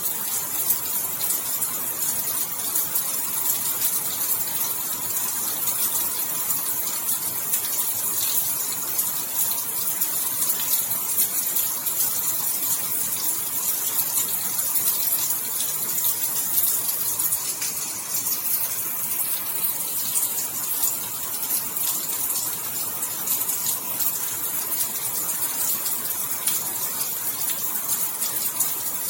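Steady rain falling: an even hiss made of countless fine drop ticks, the sound lying mostly in the high range.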